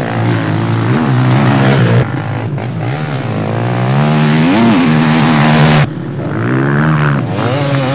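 Motocross motorcycle engines running hard under throttle, the engine note rising and falling several times. The sound drops off abruptly about two seconds and six seconds in.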